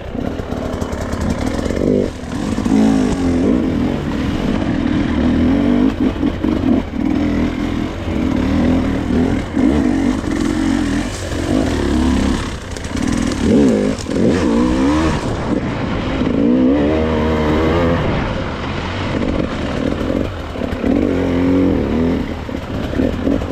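Gas Gas enduro dirt bike engine being ridden hard, revving up and falling back again and again as the throttle is worked.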